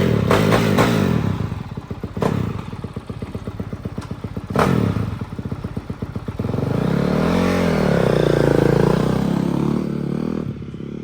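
450 dirt bike engine idling with a rapid, even putter, with a couple of sharp knocks, then revving up and back down once about seven to ten seconds in.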